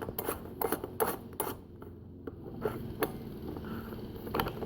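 Parts being pushed together by hand on a fuel-tank filler neck: several sharp clicks and light scraping in the first second and a half, then two more clicks, about three seconds and four and a half seconds in.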